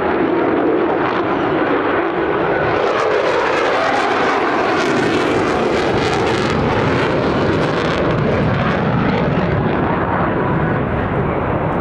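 F-16 Fighting Falcon jet engine roaring steadily during a demonstration pass. The hiss grows louder from about 2 seconds in, peaks mid-way, and fades again after about 8 seconds as the jet passes by.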